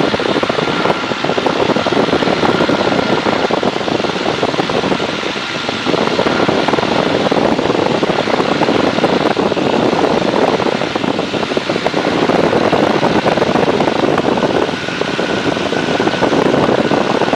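Tiger Moth biplane in cruising flight: the engine and propeller running steadily under a rush of wind noise, with brief slight dips in loudness about five seconds in and again near the end.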